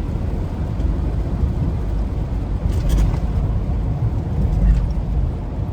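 Steady low rumble of a semi truck's engine and tyres heard from inside the cab on a slushy highway, with a brief sharp crackle about three seconds in.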